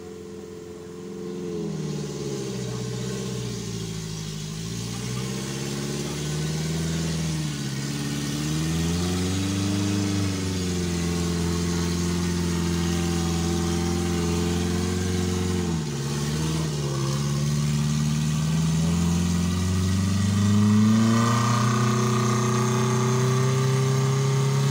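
Daihatsu Taft Hiline 4x4's engine working at low speed as it crawls across a slippery off-road trail, its revs repeatedly dropping and rising. It holds steady for several seconds, dips, then climbs in pitch and gets louder near the end.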